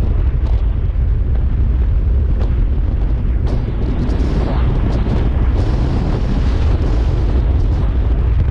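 Strong wind buffeting on the microphone of a moving Kawasaki Z300 motorcycle: a loud, steady low rumble.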